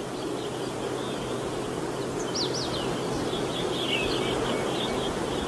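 Small birds chirping and twittering, with a few quick sweeping notes about two and a half seconds in, over a steady background rush of outdoor noise.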